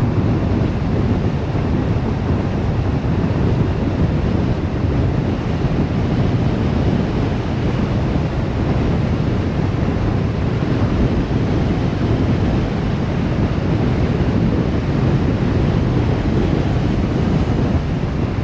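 Steady rushing road and wind noise of a car driving along.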